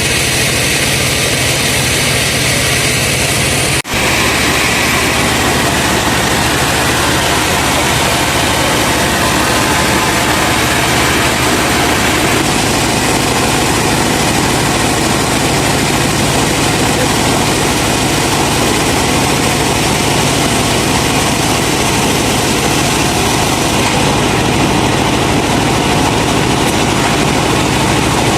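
Truck-mounted sawmill running, its truck engine driving the saw with a steady, loud drone, broken only by a brief cut-out about four seconds in.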